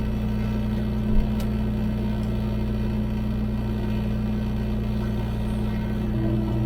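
Tractor engine running at a steady speed, with a single knock about a second in.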